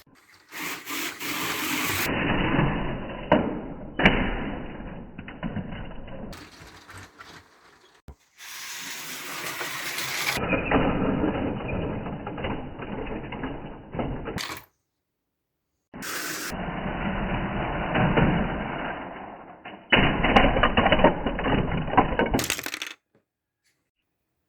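Lego-bodied slot cars running on the track and crashing, loose plastic bricks clattering and cracking on impact. It comes in several short clips with abrupt cuts, broken by two brief dead-silent gaps, one past the middle and one near the end.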